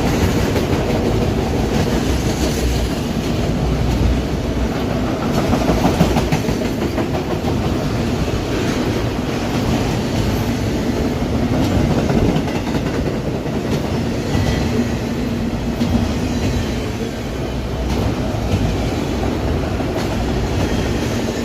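Empty autorack freight cars rolling past at speed: a steady loud rumble of steel wheels on rail with a running clickety-clack of wheel clicks.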